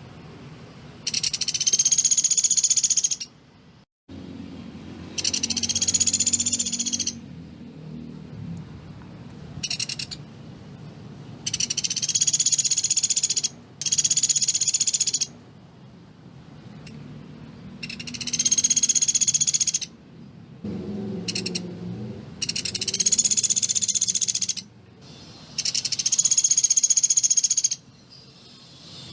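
Pelatuk beras woodpecker calling in rapid, tightly packed rattling trills, about eight bursts of one to two seconds each with short pauses between.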